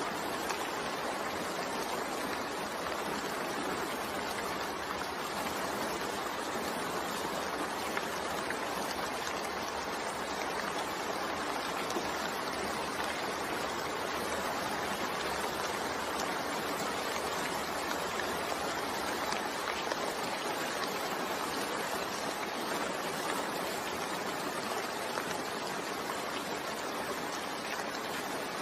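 Steady rain falling: a continuous, even hiss of water with no distinct drops or breaks.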